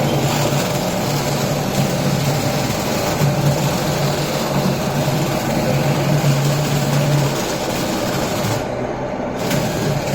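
Car driving: a steady engine hum under wide road and wind noise, with the high hiss dropping out briefly near the end.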